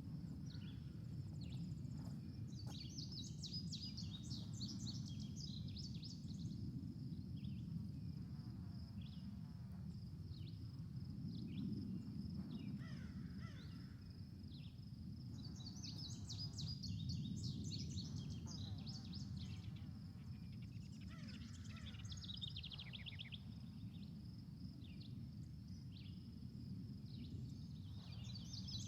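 A steady low rumble of background noise with a thin high whine, and bursts of small birds chirping several times.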